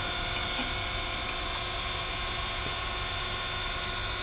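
Taft-Peirce surface grinder's spindle motor running steadily, an even hum and whine with several fixed tones.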